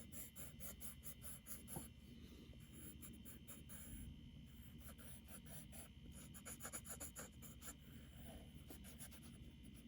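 Faint, quick back-and-forth strokes on drawing paper, about five a second, pausing briefly a couple of times: a drawing tool being worked over a charcoal drawing.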